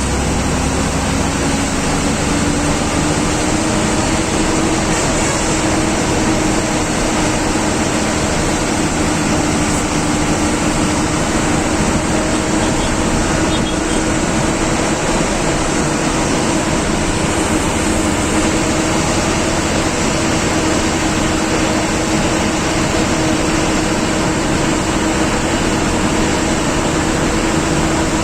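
Government bus's diesel engine running steadily under load with road and cabin noise, heard from the driver's cabin; the engine note rises a little over the first few seconds, then holds steady.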